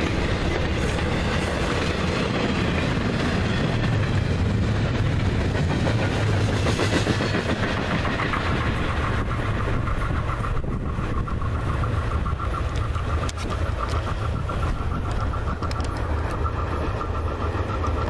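Florida East Coast Railway intermodal freight train rolling past, its flatcars carrying highway trailers: a steady rumble of steel wheels on rail with clickety-clack over the rail joints. A steady high tone joins about ten seconds in.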